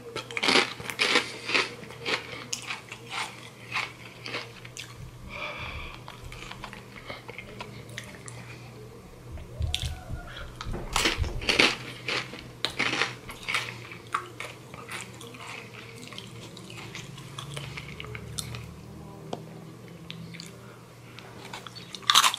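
Crunching and chewing on Takis, rolled corn tortilla chips coated in hot sauce. Sharp crisp bites come in clusters: about half a second to two seconds in, again around eleven to thirteen seconds, and once more at the end, with quieter chewing in between.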